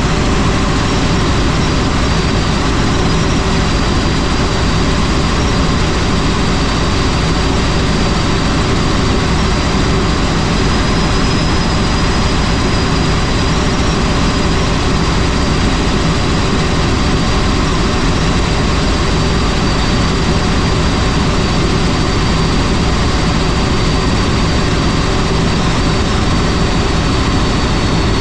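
Helicopter in flight: loud, steady engine and rotor noise with a thin high whine held above it.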